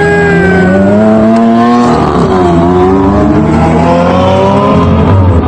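Car engine revving hard under acceleration: its note climbs, drops sharply about two seconds in, then climbs again.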